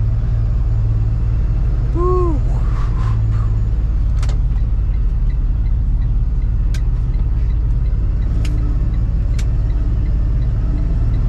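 Freightliner box truck driving, heard from inside the cab: a steady low engine and road rumble. About two seconds in there is one short squeak that rises and falls in pitch, and later a few sharp clicks.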